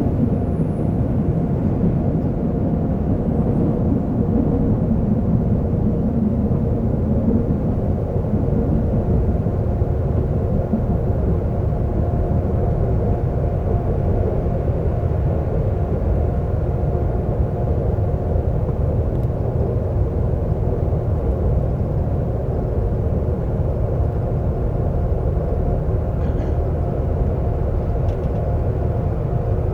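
Seoul subway train running, heard from inside the car: a steady low rumble with a faint steady hum over it.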